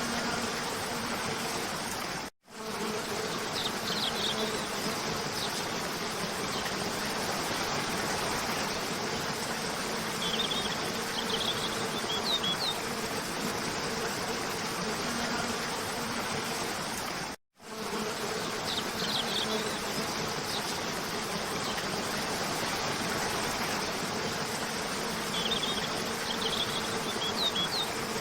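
Steady rushing of a cascading waterfall, layered with a low buzzing hum like insects and small clusters of short, high bird chirps. It is a loop that repeats about every fifteen seconds, and the sound drops out for a moment at each seam, twice.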